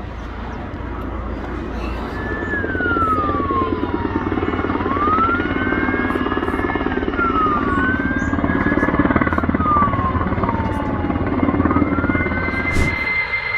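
Emergency vehicle siren wailing, its pitch sweeping slowly down and up several times, over a loud, steady rumbling engine noise. The sound cuts off abruptly about a second before the end.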